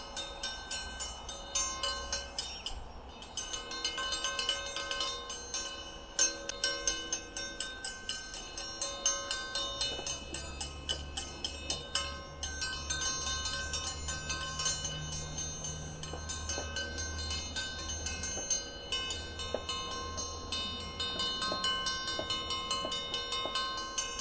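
Hand bell rung rapidly and without pause, about three or four strokes a second, to keep a swarming honeybee colony from leaving the hive.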